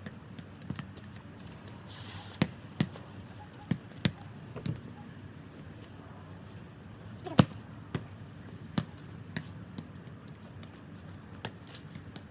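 A football being kicked and bouncing: a string of short, sharp thuds at uneven intervals, the loudest about seven seconds in.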